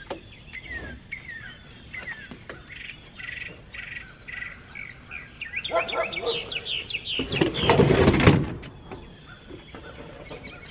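Songbirds chirping in short repeated calls, turning into a quick run of chirps past the middle. About seven seconds in a louder scraping, bumping noise joins, as wicker patio furniture is shifted on the wooden deck.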